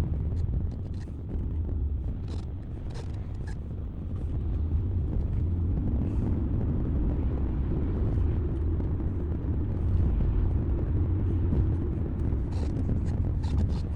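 Audi A6 2.0 TDI diesel car on the move: a steady low rumble of engine and road noise, with a few faint ticks.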